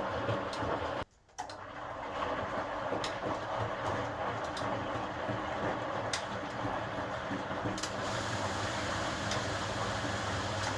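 HUWA Automatic Standard 4 washing machine running steadily, a motor hum under a steady rushing noise with occasional faint clicks. The sound drops out briefly about a second in, then carries on.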